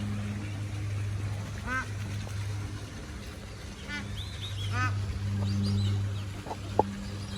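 Waterfowl honking three times, short nasal calls of the kind geese or ducks make, with a few faint higher bird chirps between them, over a steady low hum.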